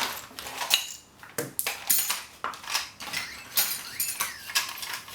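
Small hard household objects clicking and clattering against a hard surface as they are handled and set down, a string of sharp irregular taps and knocks. A short rising-and-falling whistle-like tone comes about four seconds in.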